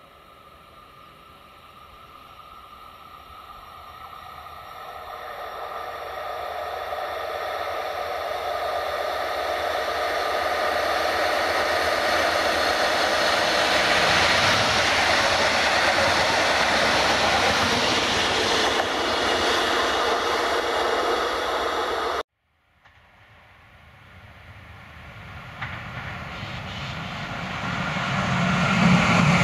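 A train approaching on the rails, its rolling noise growing steadily louder over about fifteen seconds and then holding. After a sudden cut, an electric locomotive approaches, its low rumble rising toward the end.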